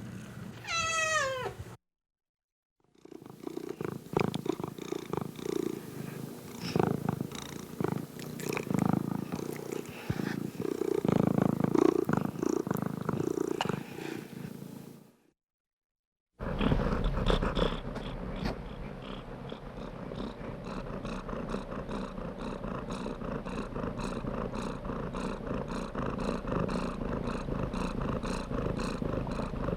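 Domestic cat sounds: a short meow falling in pitch, then purring in two separate clips, broken by two brief silences. The last clip's purr is steady and rhythmic.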